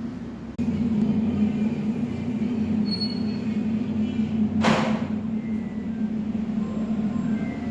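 A steady low mechanical drone that gets louder about half a second in, with a brief hiss near the middle.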